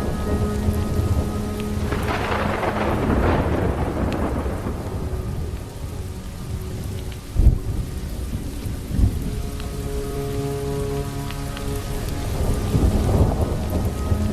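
Thunderstorm: steady rain with a long roll of thunder about two seconds in and two sharp thunder cracks near the middle. Soft, slowed, reverberant music with long held notes sits underneath.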